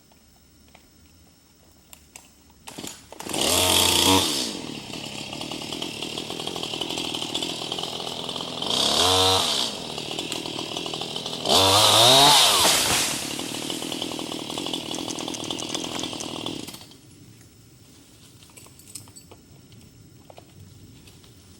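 Gas chainsaw starting up about three seconds in, revving up briefly three times between stretches of steadier running, then shutting off near the end.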